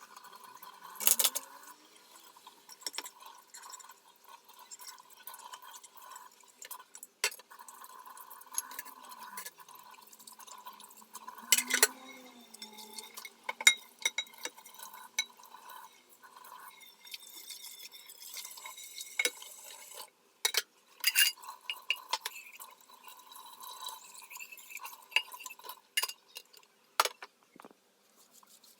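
Household cleaning sounds: glass and hard objects clinking and knocking against one another, mixed with water or liquid sounds. The strongest knocks come about a second in, around twelve to fourteen seconds in, and around twenty-one seconds in.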